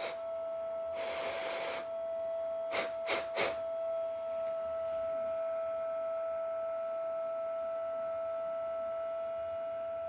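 Steady, high-pitched whine of a model locomotive's smoke-unit fan motor running. A short hiss about a second in and three quick clicks around three seconds in.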